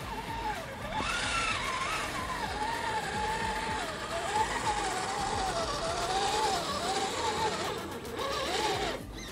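Redcat Gen8 Scout II RC crawler's electric motor and drivetrain whining, the pitch rising and falling continuously with the throttle as it crawls, over a steady gear and tyre noise.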